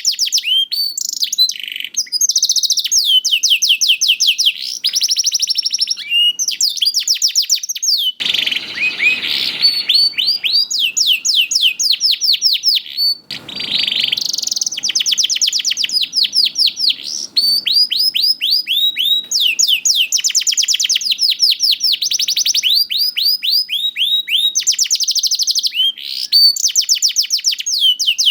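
Domestic canary singing a long song of fast trills, each phrase a rapid run of repeated sweeping high notes, the phrases changing one after another. Two short noisy rustles sound under the song about a third and halfway through.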